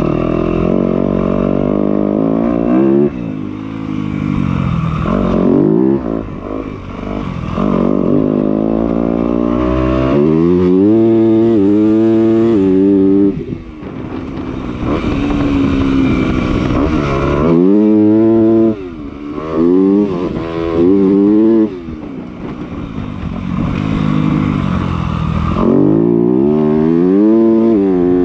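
Yamaha YZ250 two-stroke motocross bike's engine revving up and backing off over and over as it is ridden, its pitch climbing through each burst of throttle and dropping between them.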